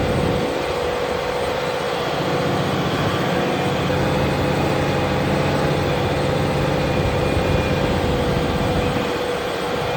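Fendt tractor's diesel engine running steadily while ploughing, a low drone with a steady higher tone over it.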